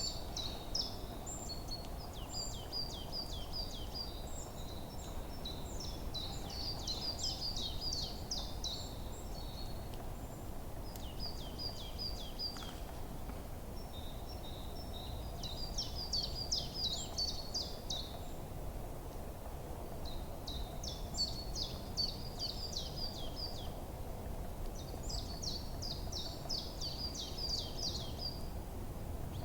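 Forest songbirds singing: bouts of quick, high-pitched repeated notes lasting a couple of seconds each, returning every four or five seconds, over a steady low background rumble.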